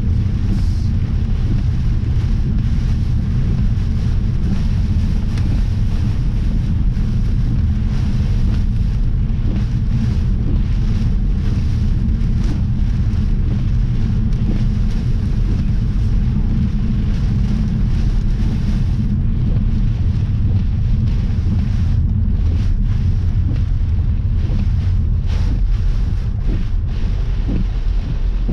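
Strong storm wind buffeting the microphone, a loud steady low rumble, with scattered sharp taps throughout.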